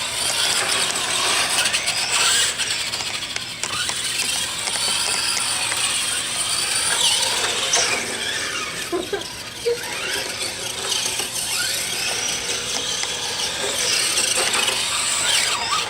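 Electric RC cars' motors and gears whining, the pitch gliding up and down again and again as the throttle is worked.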